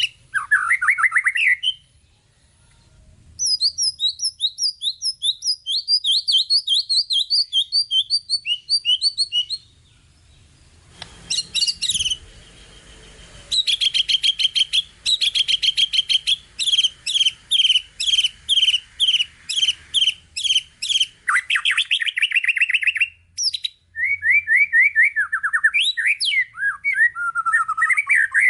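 White-rumped shama (murai batu) singing a long, varied song of rapid repeated chirps, trills and whistled phrases, with mimicked calls of other birds worked in. There are short pauses between phrases and a brief burst of noise about eleven seconds in.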